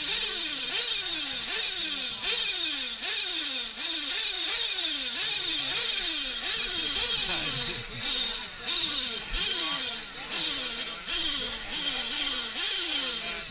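Two-stroke glow-fuel engines of 1/8-scale nitro RC racing trucks revving up and backing off over and over, with more than one rising sweep a second. A high, steady whine runs over the top.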